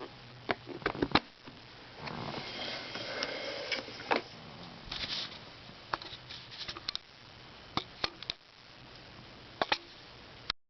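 A Tonka toy truck being handled: scattered sharp clicks and knocks, with a stretch of rustling and scraping about two seconds in.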